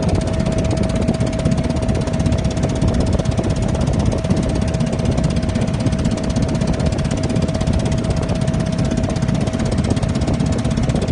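Boat engine running steadily at constant speed: a fast, even, knocking beat with a steady whine held above it.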